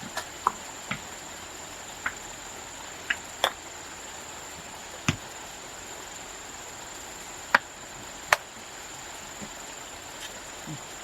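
A steady high-pitched insect drone, as of crickets, with scattered sharp knocks and taps, about nine in all, the loudest two close together near the end.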